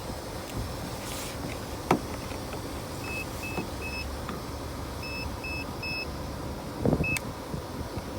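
Two groups of three short, high electronic beeps and a single beep near the end, with a sharp click about two seconds in and a thump near the end, over steady wind noise.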